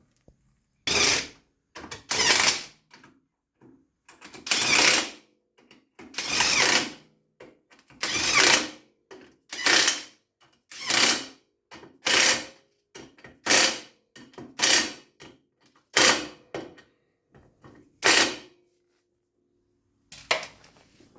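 A hand or power tool working on a tractor's rear axle in a series of about fifteen short, loud bursts, roughly one every second or so, which stop near the end.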